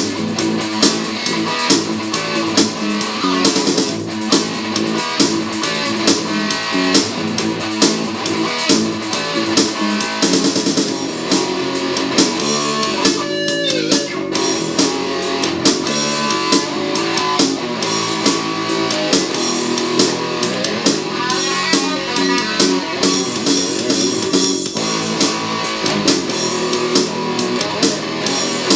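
Heavy metal rock recording: distorted electric guitar riffing over drum kit and bass at a steady loud level.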